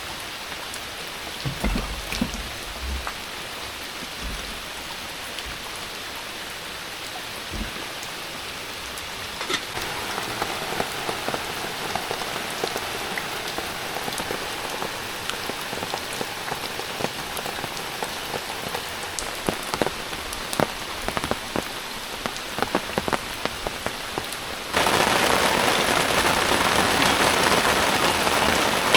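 Heavy rain falling steadily, with many individual drops ticking sharply, and a few low thumps in the first seconds. About 25 seconds in, the rain suddenly becomes louder and denser.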